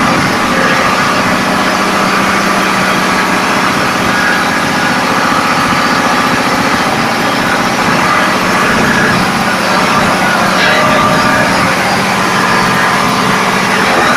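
Ship's engine-room machinery running: a loud, steady engine drone with a constant low hum under dense mechanical clatter.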